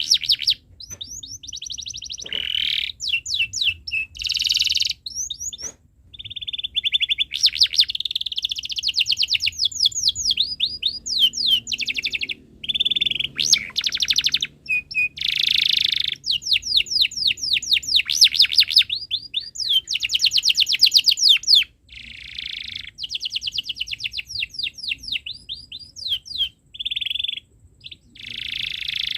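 Domestic canary singing a long, near-continuous song of fast runs of repeated chirping notes and rolling trills, high-pitched, with short breaks about six and twenty-two seconds in.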